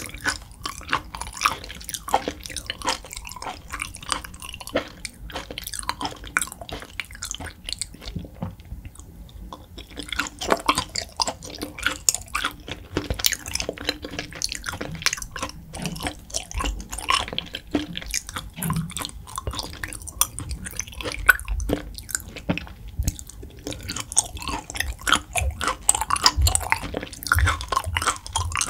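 Close-miked wet chewing of raw beef: a steady run of soft mouth clicks, smacks and squishes, with a brief quieter pause about eight seconds in.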